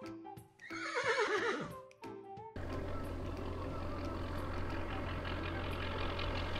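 A horse whinnies once about a second in, its pitch wavering and falling, over light background music. From about two and a half seconds, a tractor engine runs steadily with a low hum.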